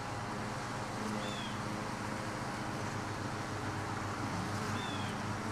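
Honeybees buzzing around an opened hive: a steady low hum over an even hiss, with two short, high, falling chirps, about a second in and near the end.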